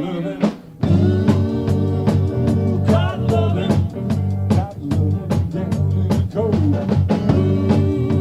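Rock band music with drum kit, bass and guitar; the band drops out for a moment about half a second in, then comes back in full.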